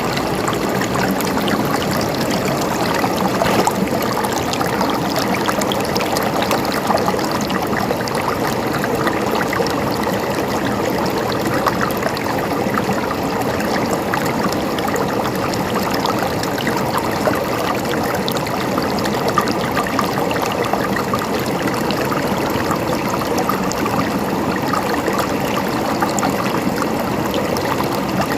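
River water flowing steadily over rocks, a continuous rushing with small splashes and trickles.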